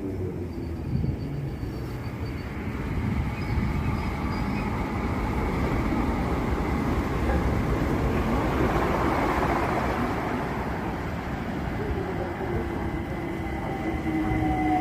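Electric passenger train running through the station: a rail rumble that builds to a peak near the middle and then eases off. Near the end a falling whine sets in as a train slows.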